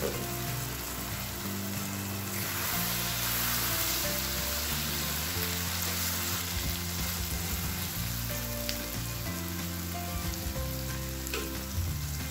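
Mutton heart and onion curry sizzling in a non-stick frying pan as it is stirred with a spatula. The sizzle grows louder about two seconds in.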